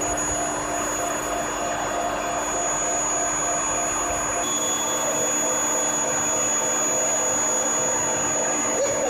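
Steel heat-treatment furnace equipment running: a steady machine hum and hiss with a thin, high-pitched whine over it. A low rumble underneath drops away about halfway through.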